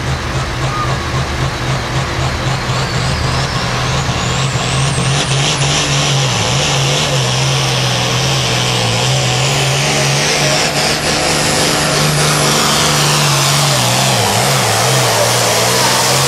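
International hot farm tractor's turbocharged diesel engine running at full power under load, pulling the sled down the track. A high whine climbs in pitch over the first few seconds, then holds steady over the engine's loud drone.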